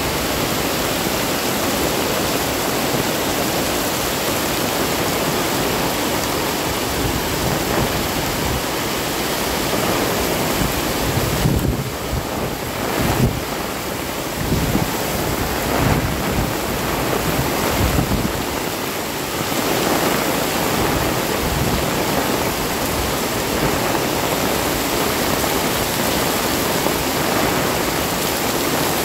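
Heavy rain pouring in strong wind, a steady dense hiss. Through the middle stretch, low gusts of wind buffet the microphone.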